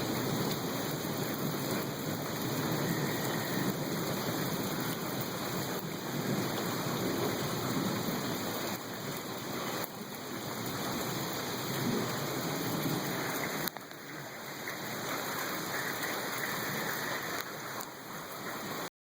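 Steady rain falling during a thunderstorm, an even hiss, which cuts off suddenly near the end.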